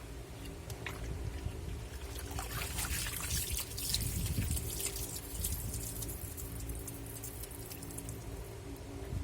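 Water pouring and splashing in a washing machine tub, heaviest in the middle and easing off after about six seconds, over a steady low hum.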